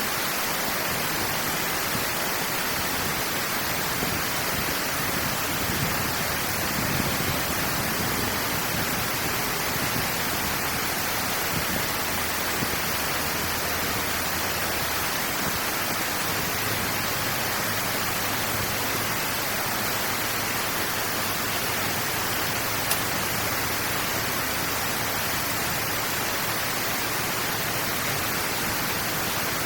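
Steady rush of water pouring through a drainage outlet, an even hiss without a break.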